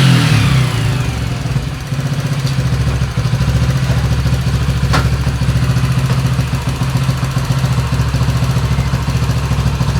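Italjet Griffon GF125's 125 cc single-cylinder engine settling from a rev down to a steady idle, with one sharp click about halfway through. It is running smoothly again after its clogged carburetor was cleaned.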